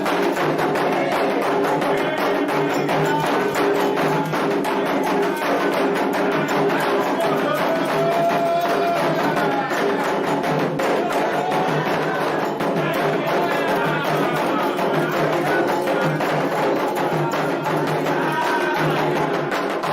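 Candomblé ritual percussion: atabaque hand drums playing the rum, the drummed rhythm for the orixá Oxumaré, with hard, bright strikes over a steady stream of drum strokes.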